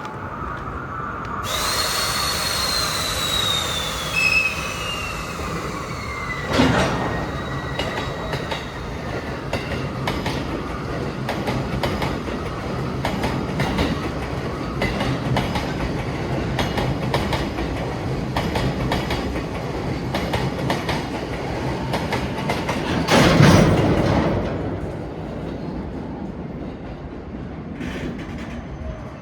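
Train running through the station: steel wheels squealing in high tones that glide downward for several seconds, over a steady rumble and clatter of wheels on the rails, with a louder surge about 23 seconds in.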